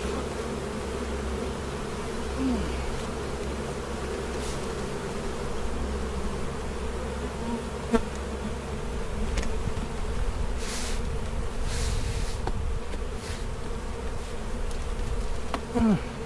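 A stirred-up honey bee colony buzzing in a steady drone as its hive is worked, with single bees whizzing past the microphone a couple of times. A click about eight seconds in and a few short hisses near the middle.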